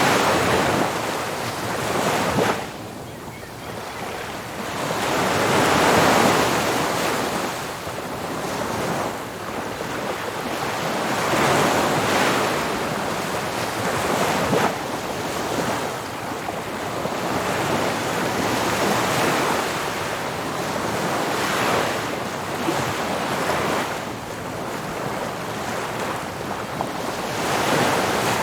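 Ocean surf breaking on a beach, waves swelling and washing in one after another every few seconds, with a steady rush of wind behind.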